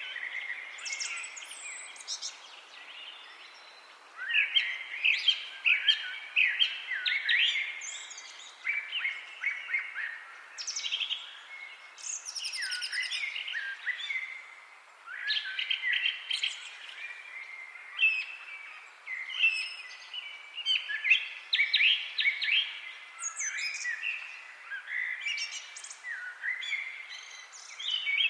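Several songbirds singing and chirping together, with quick trills and short chirps overlapping one another without a break, over a faint background hiss.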